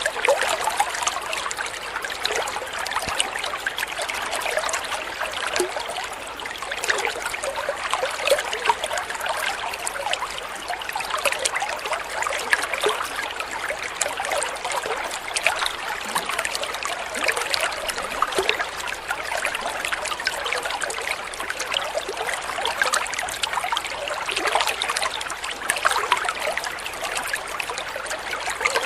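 Water trickling and splashing steadily over stones, a continuous small babbling of many tiny splashes.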